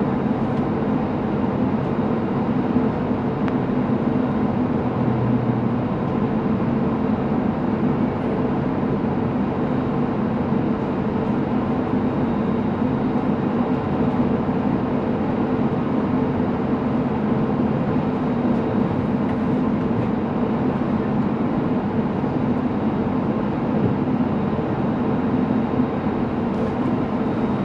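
Cabin noise inside an Airbus A350-900 taxiing: an unbroken rumble with a steady hum in it.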